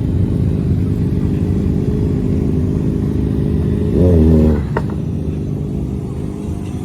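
Car engine idling with a low, steady rumble, blipped once in a short rev about four seconds in.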